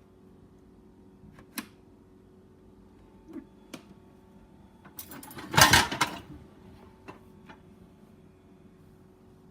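Samsung dishwasher being handled at the end of its cycle: a few separate clicks and knocks, then a short clatter of rattling about five to six seconds in, over a faint steady hum.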